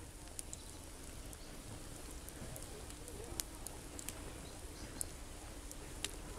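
Campfire crackling: a soft, steady hiss of burning wood with occasional sharp pops.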